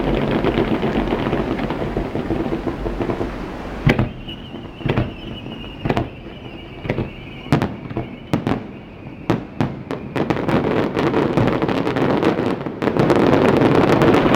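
Aerial fireworks bursting in a quick series of sharp bangs that starts about four seconds in. A steady rushing noise comes before the bangs and returns loudly near the end.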